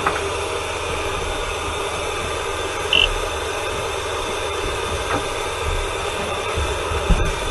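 Steady hiss with a low hum inside a rally truck's cab, and a short high beep about three seconds in.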